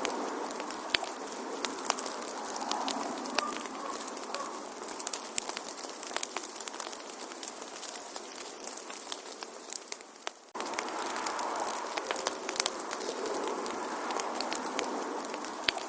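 Wood fire crackling: a steady hiss of burning with many sharp pops and snaps scattered through it. About ten and a half seconds in, the hiss dips briefly, then steps back up abruptly.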